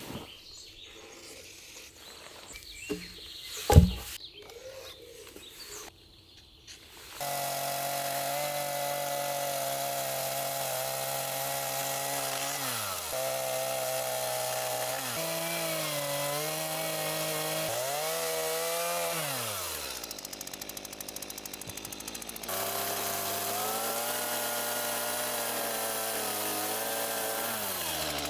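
A chainsaw cutting wood: its engine pitch sags and recovers several times under load and eases off for a couple of seconds about two-thirds through. Before it starts, several seconds of quiet with a few sharp knocks.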